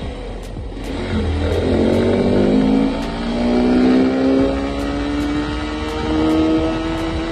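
Motorcycle engine pulling under acceleration: its note comes in about a second in and climbs steadily in pitch for several seconds.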